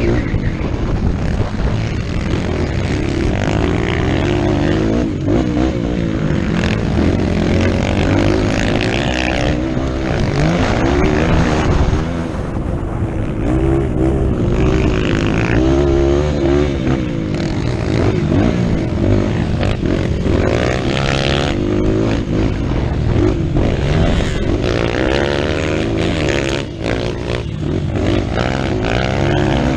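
Dirt bike engine revving hard during a motocross race, its pitch climbing and dropping back over and over as the throttle is worked.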